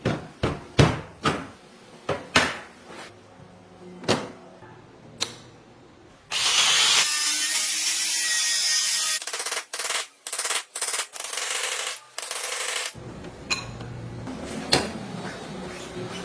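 Workshop tool noises: a run of sharp knocks and clicks, then a hiss lasting about three seconds, followed by a string of short hissing bursts and a few more knocks.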